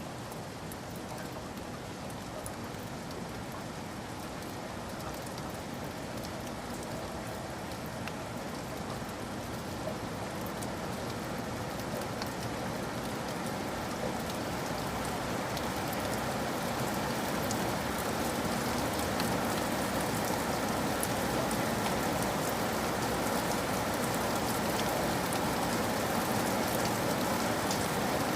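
Steady rain falling, with scattered drops pattering on a surface, growing gradually louder and heavier.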